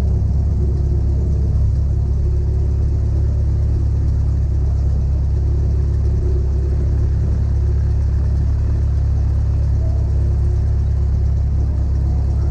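Cessna 172's piston engine and propeller running steadily at taxi power, a deep, even drone with no change in pitch.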